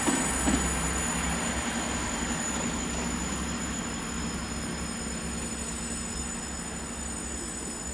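Class 166 Networker Turbo diesel multiple unit running as it pulls away from the platform: a steady low engine rumble and rolling noise fading slowly.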